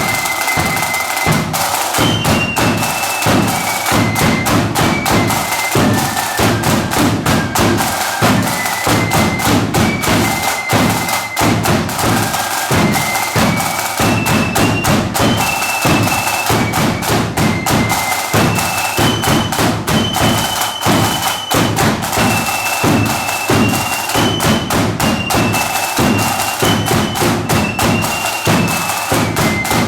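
A marching band playing a tune: a single high melody line over a steady, driving beat of bass drum and snare.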